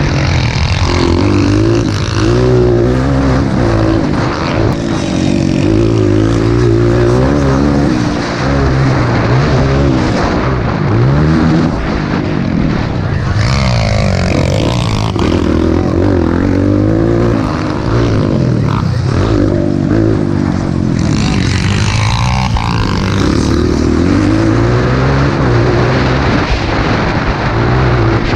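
Motocross dirt bike engines revving hard while racing, their pitch climbing and dropping again and again as the throttle opens and closes and gears change.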